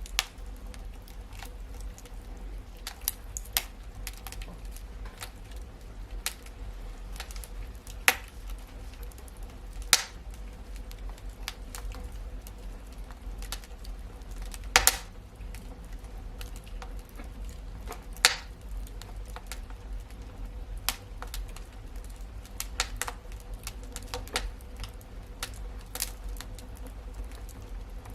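Wood fire crackling in a fireplace: irregular snaps and pops, a handful of them louder, over a steady low rumble.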